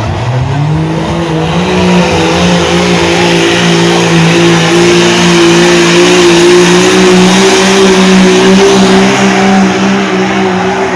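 Pulling truck's engine at full throttle during a truck pull run: its pitch climbs over the first couple of seconds, then holds high and steady under load, with a loud hiss over it.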